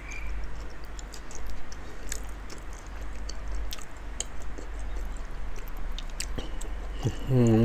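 Close-up mouth chewing of food, with soft wet smacks and small scattered clicks. Near the end comes a short hummed vocal sound whose pitch rises and falls.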